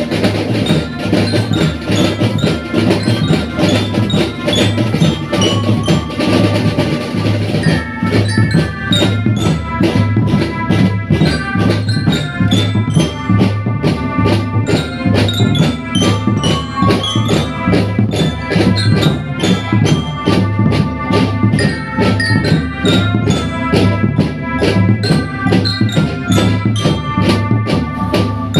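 School marching drum band playing: dense, rapid drumming with a melody line over it.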